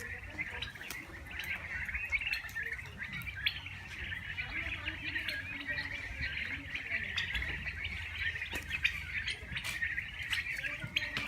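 A flock of turkeys giving a dense, continuous chorus of high chirping calls, with scattered small clicks.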